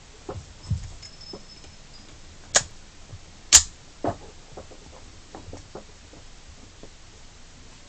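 Small clicks and knocks of handling, with two sharp, loud clacks about a second apart a little over halfway through the first half.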